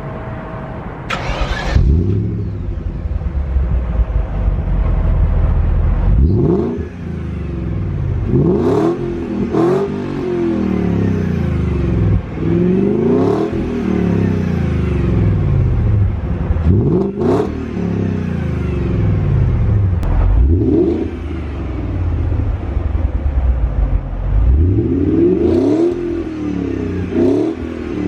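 Exhaust of a 1999 BMW 540i's 4.4-litre V8 through an aftermarket exhaust, revved over and over, each rev rising in pitch and falling back toward idle.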